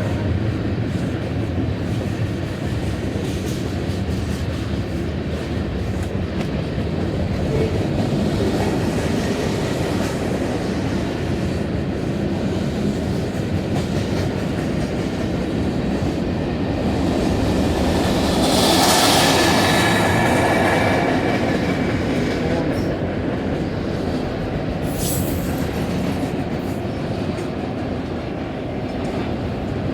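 Long CSX freight train rolling past, its cars clattering steadily over the rails, swelling louder for a few seconds about two-thirds of the way through.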